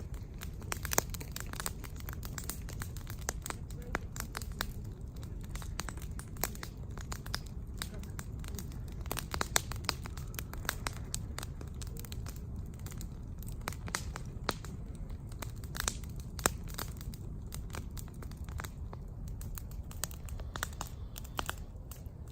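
Wood campfire burning, with irregular crackles and sharp pops over a steady low rush.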